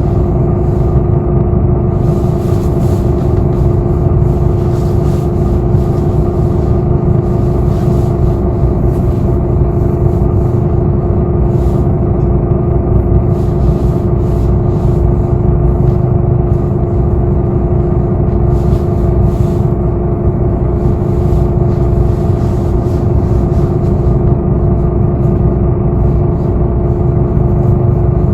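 Inside a city bus: a steady low rumble of engine and road with a constant hum, and light, irregular higher noise flickering over it.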